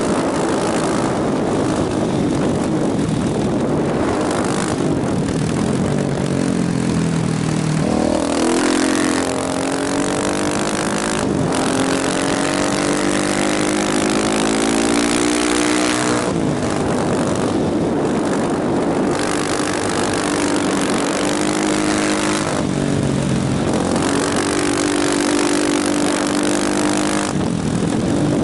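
Motorcycle engine accelerating hard, its pitch climbing and dropping back at each upshift several times, under heavy wind rush.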